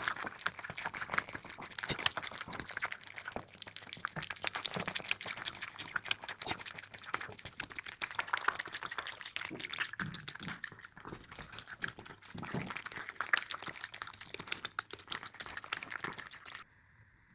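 Cats eating wet food: a dense run of small wet chewing and lip-smacking clicks, cutting off suddenly near the end.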